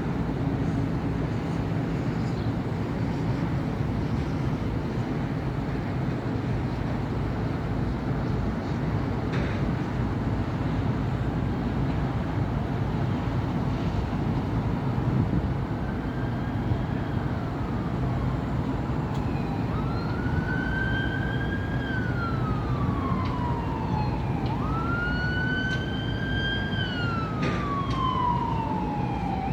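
Steady city traffic on a busy avenue, a constant rumble of engines and tyres. From about halfway through, an emergency vehicle's siren comes in, wailing repeatedly up and down in pitch and growing louder.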